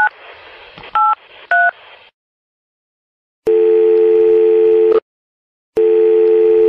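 Telephone keypad tones as three digits are dialed on a smartphone, short two-note beeps about half a second apart, followed by two long steady ringback tones as the call to 911 rings through.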